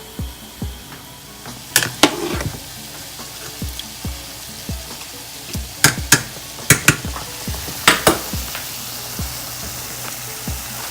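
Food sizzling as it fries in a pan, a steady hiss, with several sharp knocks that mostly come in pairs.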